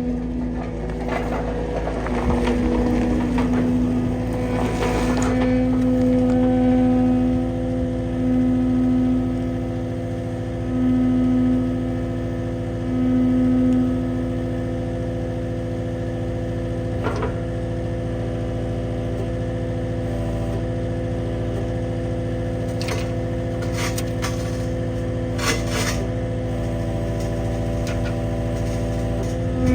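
Skid steer's diesel engine running steadily, swelling in level four times in the first half as it works under load. There is rough scraping in the first few seconds and a few sharp knocks later on.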